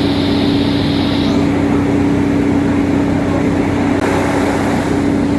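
Diesel multiple unit's engine running loudly at a steady pitch, with a high hiss that stops just over a second in.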